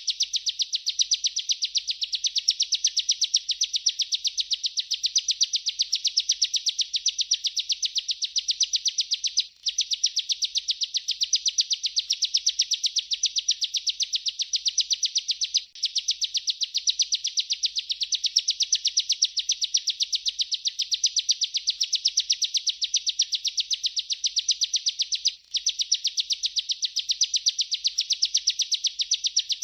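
Bar-winged prinia (ciblek) singing a long, unbroken rolling song of rapid high chirps. It breaks off only briefly three times: about a third of the way in, about halfway, and near the end.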